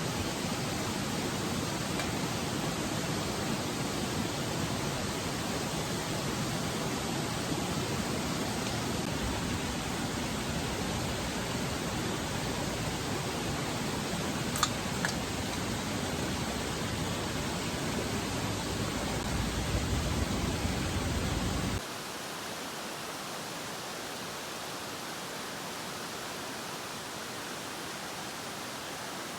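A steady rushing noise without pitch or rhythm, with two faint ticks about halfway through. About three-quarters of the way in it drops suddenly to a quieter, thinner hiss.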